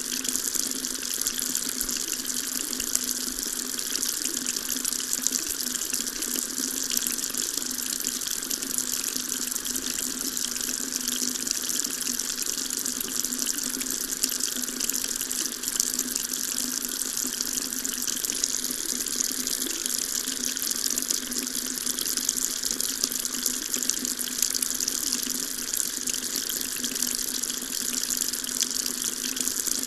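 A water tap running steadily into a sink, an even rushing splash with a hiss on top and no change in flow.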